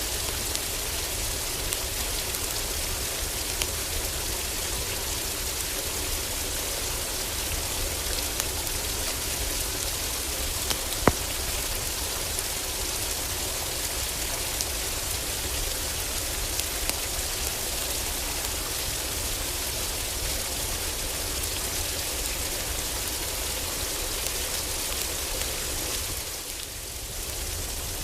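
Heavy rain on a roof, a steady even hiss, with scattered small crackles and pops from a wood fire in a fireplace; one sharp pop about eleven seconds in stands out as the loudest. The rain eases slightly for a moment near the end.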